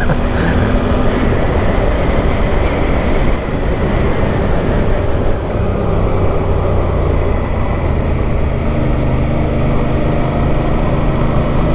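Motorcycle engine running at a steady road speed, its hum holding an even pitch, under a thick rush of wind noise.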